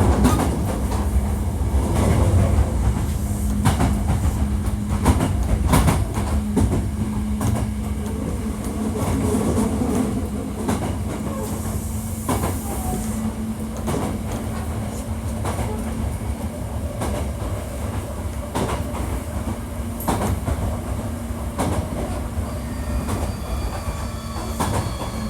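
Hankyu 1300 series train running, heard from inside the car: a steady rumble with a constant low drone and scattered rail-joint clicks, from a car known for an unusual noise. Near the end, faint high whining tones come in as the train begins to slow for the next station.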